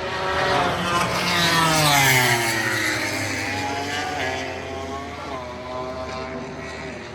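MotoGP race bike passing at speed: the engine is loudest about two seconds in, its note falling as it goes by, with brief dips in pitch as it shifts or rolls off the throttle before it fades.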